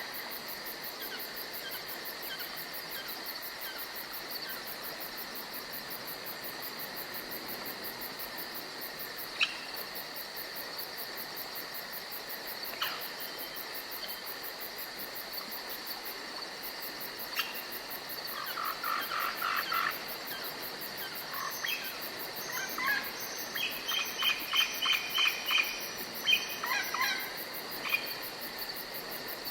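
Night forest ambience: steady, high chirring of insects such as crickets, with a few rapid runs of pulsed chirping calls in the second half and a few single clicks.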